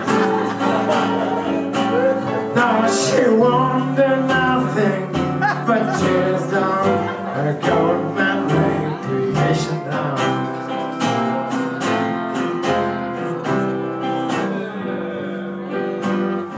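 Live blues band playing an instrumental passage, with a steady beat under sustained notes.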